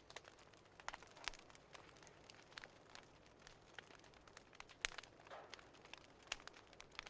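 Fireplace fire crackling faintly, with irregular small pops and snaps over a soft hiss; one sharper pop about five seconds in.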